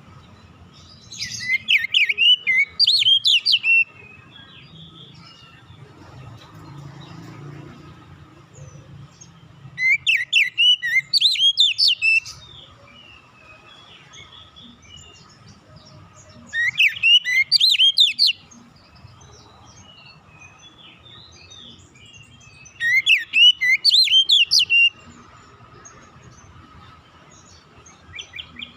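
Oriental magpie-robin (kacer) singing in short bursts of rapid, varied whistled phrases, four bursts each two to three seconds long with pauses of several seconds between them and a fifth starting near the end. A faint steady tone runs underneath.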